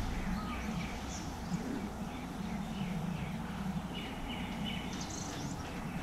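Wild birds chirping and calling in short, quick notes, several at once, over a steady low rumble of outdoor ambience.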